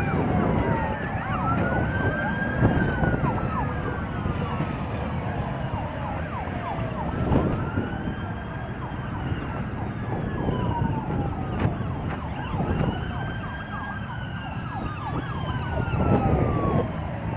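Several police car sirens wailing at once, each rising and falling slowly and overlapping out of step, over steady road and engine rumble from the passing chase.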